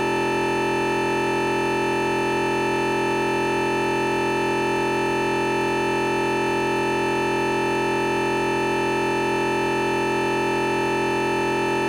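A continuous, unchanging electronic beep-like drone made of many steady tones at once, replacing the recording's real sound: a recording glitch that the uploader puts down to an emergency alert text arriving during filming.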